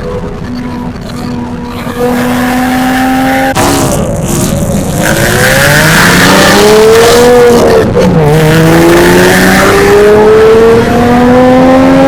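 Porsche 987.1 Cayman S 3.4-litre flat-six with a Fabspeed cat-back exhaust, running at a steady note, then accelerating hard: after a short break about three and a half seconds in, the engine pitch climbs steeply, drops suddenly at an upshift about eight seconds in, and climbs again, getting louder as it revs.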